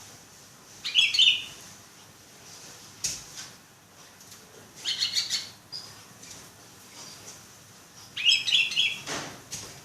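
Sooty-headed bulbul (kutilang) calling: short bursts of quick chirping notes, three main bursts a few seconds apart.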